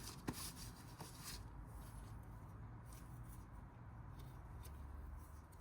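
Faint clicks and light rubbing from a turbocharger's shaft being turned and rocked by hand to check it. It turns smoothly with very little play, a sign the turbo is in good order.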